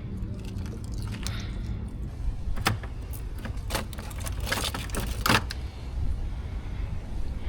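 A run of sharp clicks and rattles, bunched between about two and a half and five and a half seconds in, over a steady low rumble.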